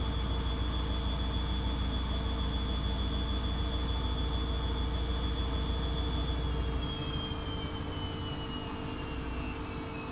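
ATLANT 70C1010 washing machine running with a steady high motor whine over a low hum. About seven seconds in, the hum drops and the whine starts falling steadily in pitch as the drum slows down.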